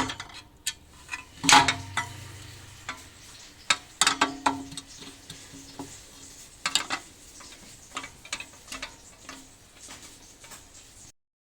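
Loosened steel bolts and engine-fan parts being handled by hand, clinking and clanking against metal. The loudest clank comes about one and a half seconds in and rings on briefly, and there is another cluster of clinks around four seconds in.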